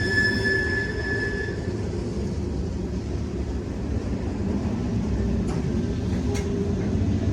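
Freight train rolling along the track with a steady low rumble; a thin, high wheel squeal carries over from before and fades out in the first couple of seconds. Two faint ticks come near the end.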